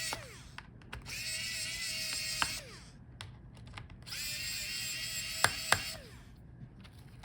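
Electric screwdriver backing out a laptop's heatsink screws in two runs of a couple of seconds each, a steady whine that winds down in pitch as each run stops. There are a couple of sharp clicks during the second run.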